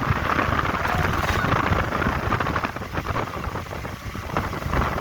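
Wind buffeting the microphone over the noise of a moving vehicle on the road, easing off somewhat about three seconds in.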